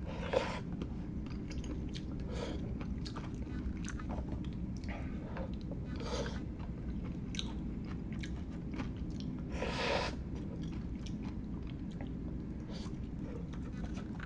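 Close-miked eating of instant Szechuan hot pot: wet chewing with many small mouth clicks and smacks, and a few longer noisy mouth sounds near the start, about six seconds in and about ten seconds in.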